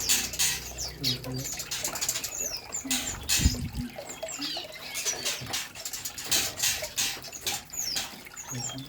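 Many small birds chirping with short, high, sliding notes, with frequent rustles and wing flutters. A single heavier thump comes about three and a half seconds in.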